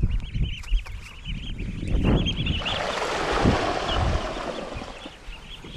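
Footsteps with a rush of rustling noise lasting about two seconds midway, while small birds chirp in quick repeated notes throughout.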